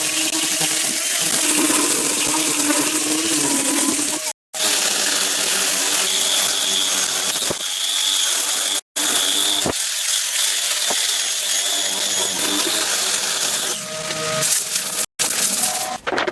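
Woodworking power tools running loudly and steadily on wood, with a few faint steady whines, cut off abruptly three times.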